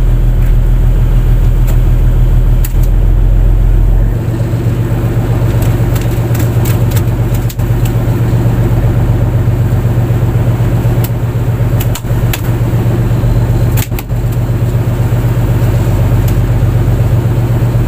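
Fishing boat's engine running steadily and loudly, its low drone shifting slightly about four seconds in. Scattered sharp clicks and knocks sound over it.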